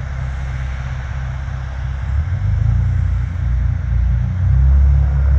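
Lifeboat's engines running under way, a deep rumble that steps up in pitch and loudness about two seconds in and again near the end as the throttle opens.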